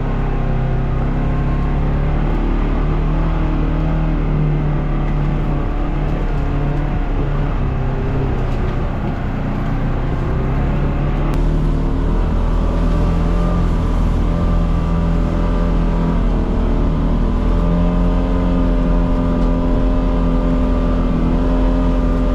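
Engine of a Polaris Xpedition side-by-side running as it drives along a trail, its pitch rising and falling with the throttle.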